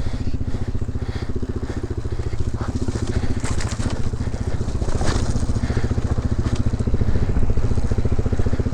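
Single-cylinder enduro dirt bike engine running at steady low revs with an even pulsing beat, while the tyres crunch and crackle over rocks and brush, most around the middle.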